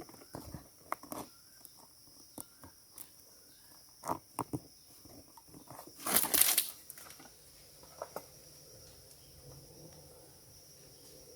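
Scattered small knocks and clicks, then a loud rustling burst about six seconds in, over a steady high insect drone.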